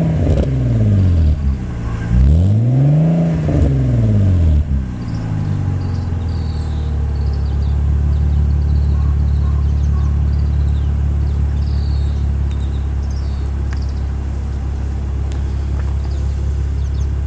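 BMW Z4 E85's straight-six engine breathing through a MARVIN stainless-steel aftermarket muffler, free-revved at a standstill. A rev falls back right at the start, a second rev rises and falls about two to five seconds in, and then the engine settles to a steady idle.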